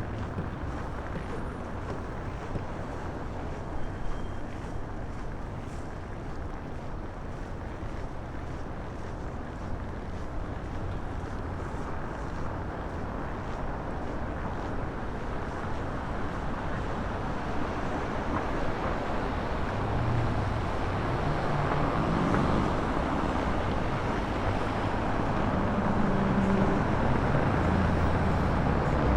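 Blizzard wind buffeting the microphone in a steady rush, with city traffic rumble growing louder over the last third.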